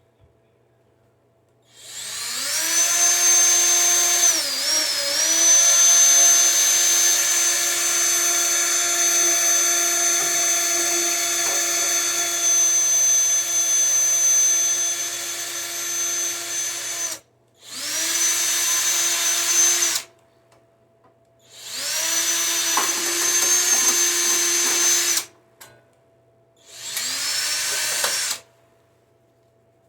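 Electric drill running steadily while drilling holes in the mower's housing: one long run of about fifteen seconds whose pitch sags briefly a few seconds in, then three shorter bursts with pauses between.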